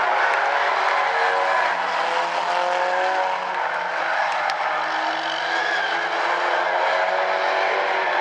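Several Stinger 8 figure-eight race cars running together on the track, engines overlapping with repeated rising notes as they accelerate.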